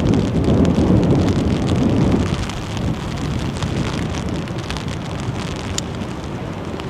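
Wind gusting against the microphone, with a heavy buffeting rumble for about the first two seconds that then eases, over a steady wash of rain.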